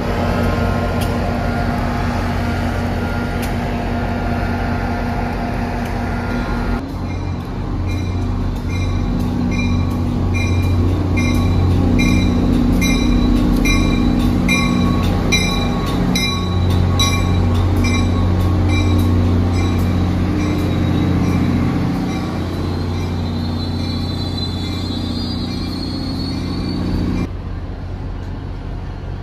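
A train running through the station with a steady low hum. Through the middle a ringing clang repeats about twice a second. Near the end comes a brief high wavering squeal, and the sound drops off suddenly.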